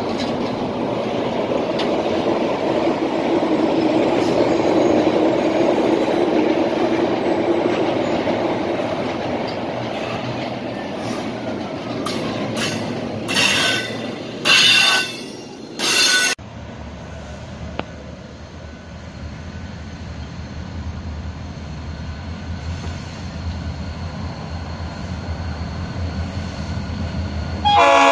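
Double-stack container train rolling past with steady wheel-on-rail noise, and three short, loud, high wheel screeches a little past halfway. After an abrupt cut, a Florida East Coast Railway diesel locomotive gives a low, steady rumble from a distance, and its horn starts sounding just at the end.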